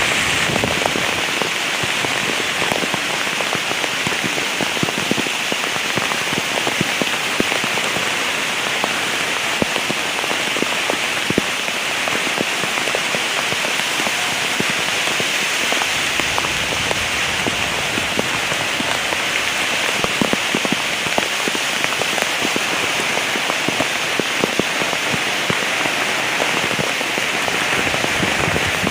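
Heavy rain falling steadily, a dense patter of drops hitting a hard surface with many sharp individual drop ticks through the hiss.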